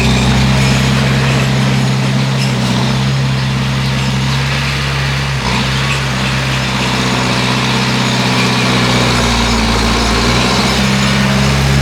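Bulldozer's diesel engine running steadily, with a brief dip in pitch about halfway through.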